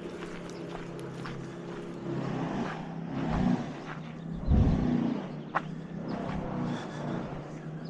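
Wood chipper's engine running steadily, not far off, with a louder low surge about halfway through.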